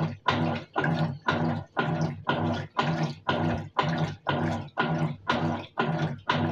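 Colormaq Eco Max 14 kg top-loading washing machine in its wash cycle: water and clothes sloshing in regular pulses, about three a second, each with a low motor hum.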